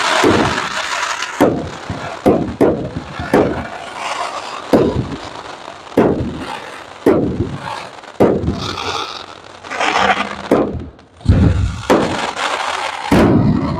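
Aerial fireworks display: loud bangs of shells bursting about once a second, with crackling and hissing between the bangs and a burst of dense crackle about two-thirds of the way through.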